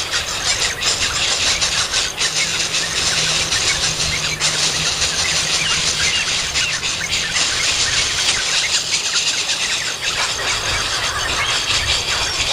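A bird chick's shrill begging calls, rapid and continuous. A faint low hum runs under them and fades out about halfway through.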